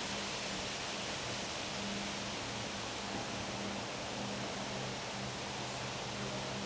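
Wind rushing steadily through trees and leaves in gusty weather, with a faint low hum underneath.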